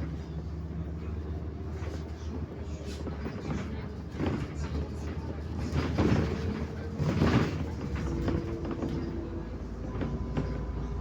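Inside a moving MAZ 105 city bus: the engine drones steadily under road noise, with louder rushing swells a few seconds in and again around the middle.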